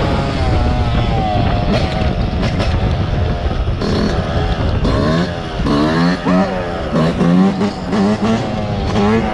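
Dirt bike engines revving up and down as they are ridden, the pitch rising and falling repeatedly, with quicker swings in the second half.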